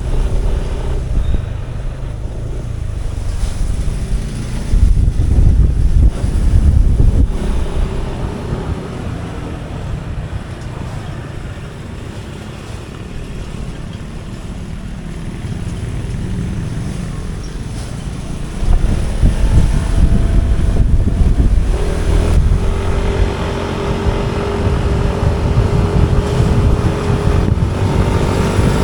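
Wind buffeting the microphone on a moving motorbike, with engine and traffic noise underneath. The rumble swells and eases, turns louder about two-thirds through, and near the end a steady engine hum comes through and climbs slowly in pitch.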